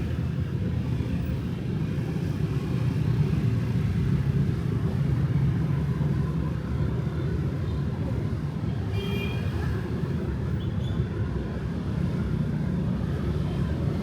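Steady low rumble of city street traffic, motorbikes and cars running by, with a few brief faint higher-pitched sounds about nine to eleven seconds in.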